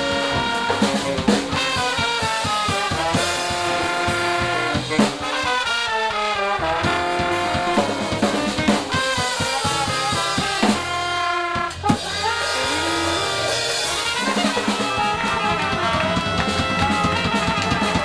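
Jazz band playing, with horns (trombone, trumpet and saxophone) carrying melodic lines over a drum kit keeping a steady swing beat.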